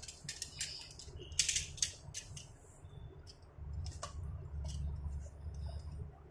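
Handling noises from a small die-cast toy car and its packaging: a series of short clicks and brief rustles. A low rumble of handling grows louder in the second half.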